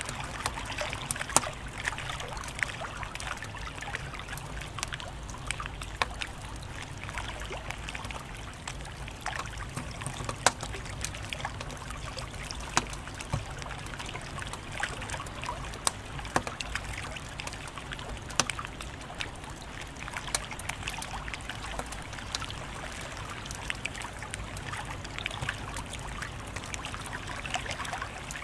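Wood fire crackling: a steady hiss with a low rumble, broken by frequent irregular sharp pops and snaps, a few of them much louder than the rest.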